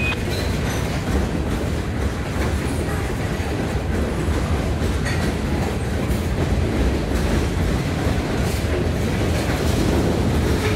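Covered hopper cars of a Norfolk Southern manifest freight train rolling past close by: a steady low rumble of steel wheels on the rails, with a few faint clicks.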